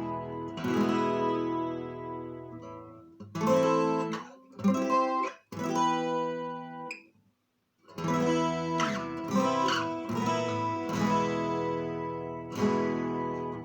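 Lunacharsky-factory 12-string acoustic guitar playing strummed chords that ring out. Near the middle the playing stops for about a second, then the strumming resumes.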